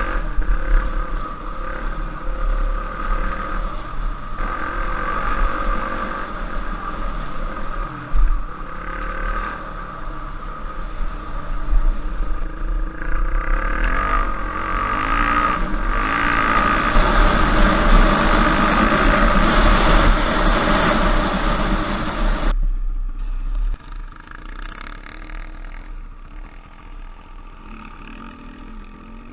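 Trail bike engine running and revving, its pitch rising and falling with the throttle, over a steady low rumble. It grows loudest and noisiest about two-thirds of the way through, then drops sharply to a quieter run.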